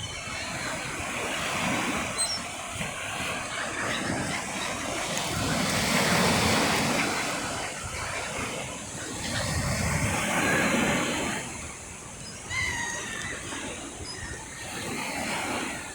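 Black Sea surf: waves washing onto the shore, swelling loudest twice, about six and ten seconds in.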